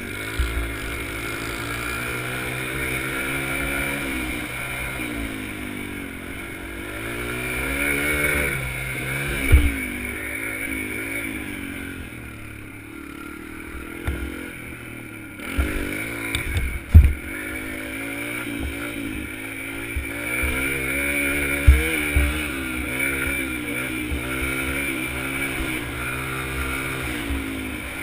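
Dirt bike engine revving up and down again and again as the throttle is opened and closed. A few sharp low thumps come through, the strongest about a third of the way in and just past halfway.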